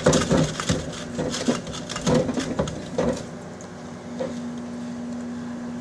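Irregular knocks, clicks and rustling from objects being handled in and around a microwave oven, stopping about three seconds in. After that only a steady low hum is left.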